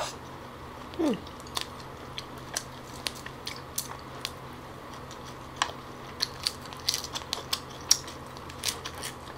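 Close-miked chewing and biting of fresh lettuce and herbs: many short crisp crunches and wet mouth clicks, busiest in the second half. A short falling hum about a second in.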